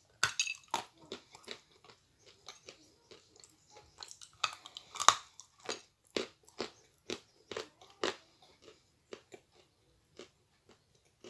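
Close-miked biting and crunching of a dry white edible clay piece ("Astana Ideal"), a run of sharp crisp cracks as it is chewed, thinning out toward the end.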